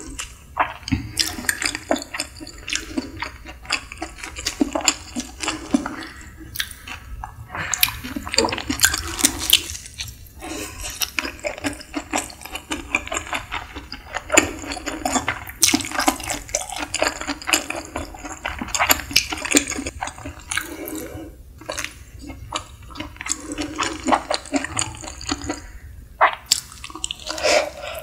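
Close-miked wet chewing and lip-smacking of nigiri sushi: a dense run of small sticky clicks and squishes with brief pauses between mouthfuls.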